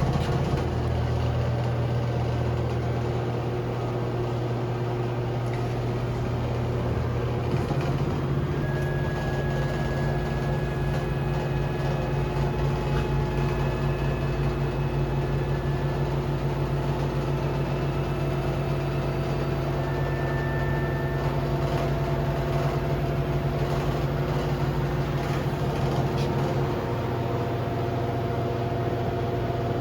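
Samsung washing machine drum spinning at high speed on a spin test after a new drum spider has been fitted: a steady low hum with faint high whines, running smoothly without wobble, the sign that the replaced spider is sound.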